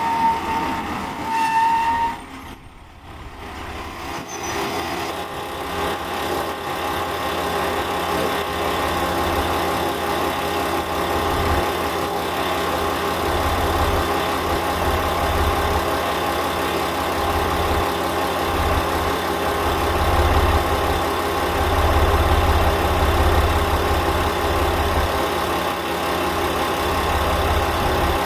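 KiHa 40 series diesel railcar's engine running with a steady low rumble. A steady high tone sounds for the first two seconds and cuts off suddenly.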